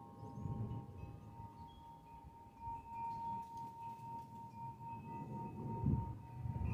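Wind chime ringing, several steady notes overlapping and lingering, one note coming up stronger about two and a half seconds in, over a low rumble.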